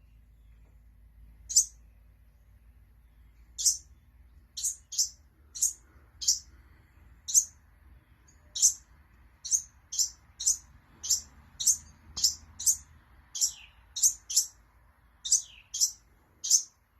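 A small bird chirping: short, sharp, high-pitched chirps. They come a couple of seconds apart at first and then quicken to about two a second from around four seconds in.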